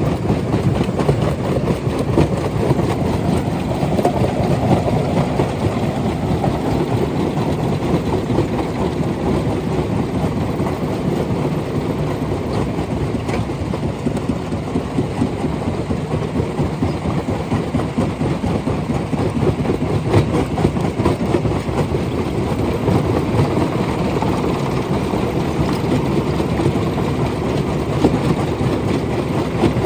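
Stone-crushing machinery running under load: a loud, steady, dense rumble.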